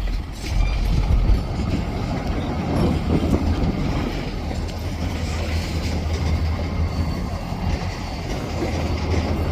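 CSX freight train with SD40-3 diesel locomotives rolling by, a steady low rumble of engines and wheels on rail, with a faint high squeal from the wheels.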